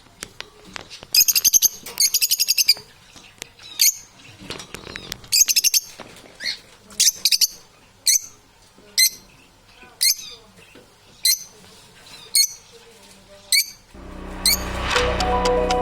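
A parrot giving a series of short, shrill calls, about one every second, with rapid chattering trills between one and three seconds in. Music comes in near the end.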